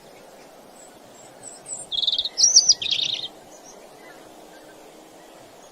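Bird calling: three quick, loud, buzzy chirps about two seconds in, with fainter high chirps just before them, over a steady low hiss.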